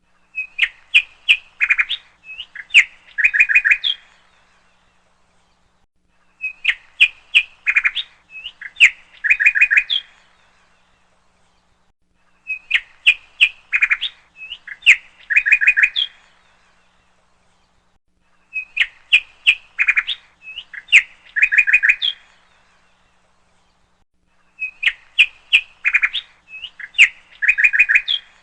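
Bird chirping in a rapid phrase of short chirps and trills, the identical phrase repeating about every six seconds with silent gaps between, like a looped recording.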